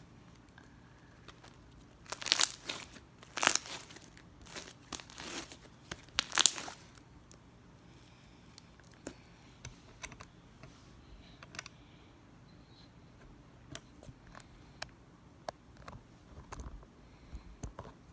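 Slime being handled by hand: a burst of crackling and crinkling for about five seconds, then scattered small pops and clicks.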